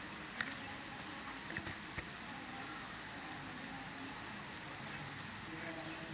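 Light rain falling steadily, an even hiss, with a few drops ticking sharply in the first two seconds.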